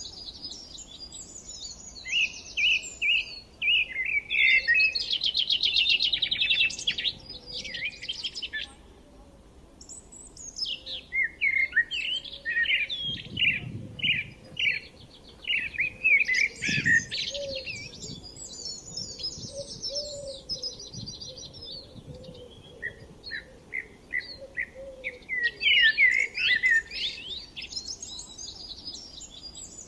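Songbirds singing and chirping, with rapid trills and repeated short notes in overlapping phrases, and a brief lull about a third of the way through.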